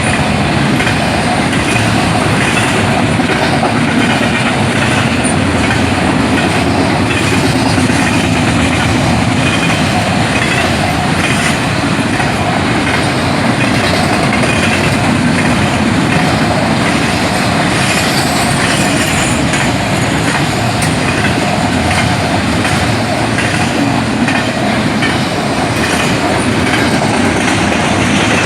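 A train passing over the crossing, its wheels and cars on the rails making a loud, steady, unbroken rush of noise.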